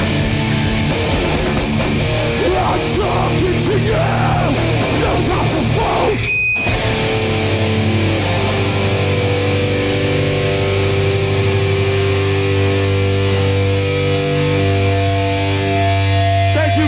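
Hardcore punk band playing live with loud distorted electric guitars and bass. About six seconds in the music breaks off for a moment, then long low guitar and bass notes ring on.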